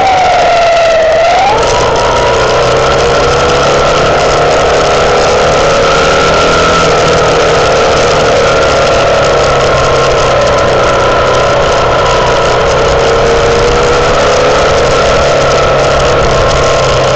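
Herald Classic motorcycle's single-cylinder engine running on the move, its pitch dipping and rising again about a second in, then holding steady. A constant rushing noise runs under it.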